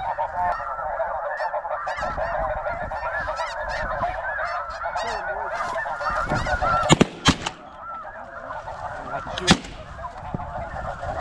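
A dense, continuous chorus of snow geese calling and honking from large flocks. A few sharp cracks stand out, two close together about seven seconds in and another a couple of seconds later.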